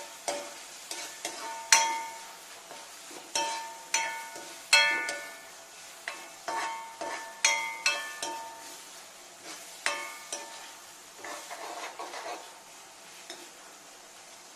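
A spoon stirring onions and tomatoes frying in coconut oil in a pan: repeated ringing clinks of the spoon against the pan over a light sizzle. The clinks come often at first and thin out after about ten seconds.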